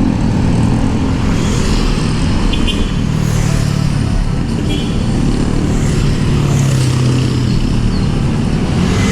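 Street traffic close by: the engines of cars, motorcycles and jeepneys running and passing, with a steady low engine drone that shifts in pitch.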